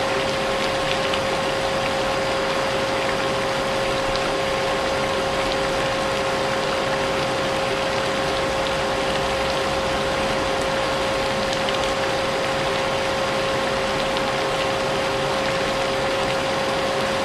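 Vacuum cleaner running steadily with a constant whine, layered over rain falling.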